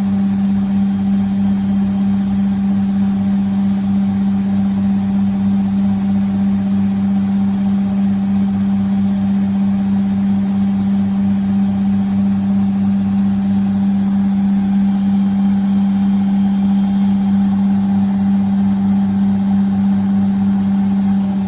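Beko washing machine's drum spinning steadily at high speed in the final spin of a handwash cycle, holding at its 1000 rpm top speed. A loud, even motor hum with a fast steady pulse underneath.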